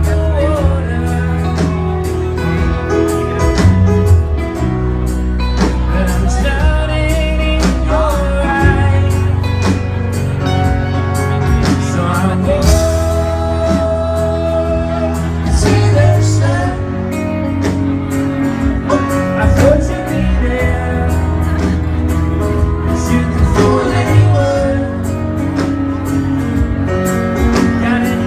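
Live folk band music: guitar over a steady bass, with singing.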